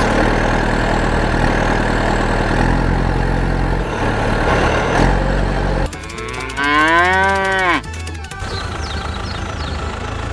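A dense rumbling noise over steady background music, then about six seconds in a drawn-out, mooing animal-like call that rises and then falls in pitch for about a second and a half.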